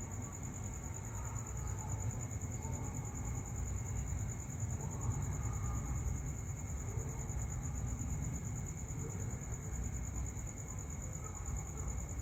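Crickets chirring steadily and continuously over a low background rumble.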